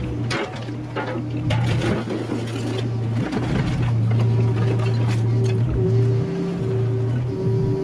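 Mini excavator's diesel engine running steadily, with sharp clanks and knocks of the bucket working through yard debris in the first two seconds or so.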